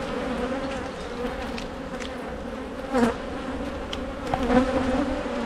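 Honey bees buzzing in a steady hum over an open hive being inspected, with louder swells sliding in pitch as single bees fly close past, about three seconds in and again near the end.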